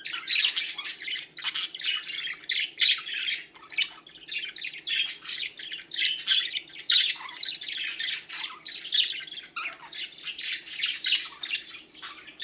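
Pet budgerigars chattering and warbling, a fast, unbroken mix of chirps, squeaks and clicks.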